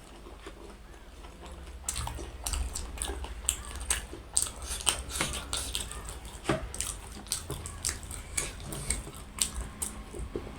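Close-up eating sounds: chewing and biting, an irregular run of short smacks and clicks that starts about two seconds in.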